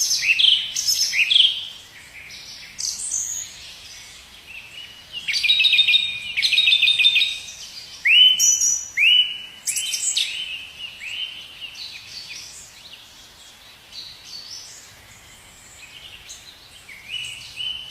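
Birds chirping and calling: short, high chirps in bursts, with quick runs of notes and sparser calls toward the end.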